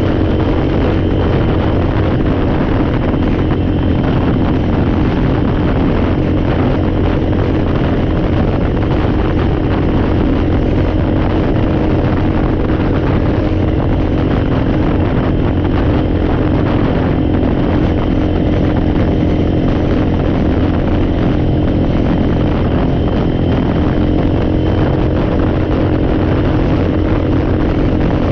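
ATV engine running at a steady speed while riding, with a constant, unchanging pitch.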